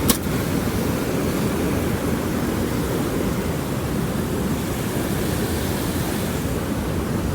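Creek water running steadily, a constant rushing noise, with a single click right at the start.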